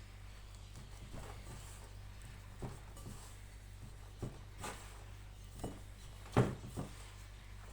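Egg pasta dough being kneaded by hand on a table: soft, irregular thuds and presses, the loudest about six and a half seconds in, over a steady low hum.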